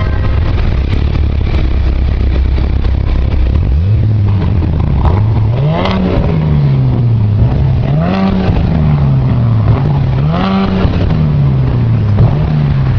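Car engine heard through its exhaust, idling low for about four seconds and then revved again and again, the pitch climbing and dropping back about every two seconds.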